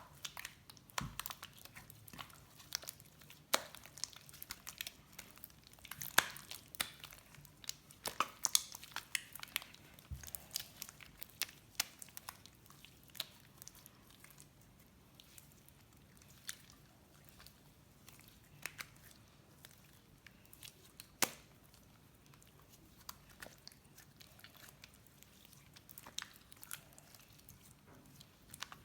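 Slime being squeezed and worked by hand, giving irregular sticky clicks and crackles, most of them in the first half.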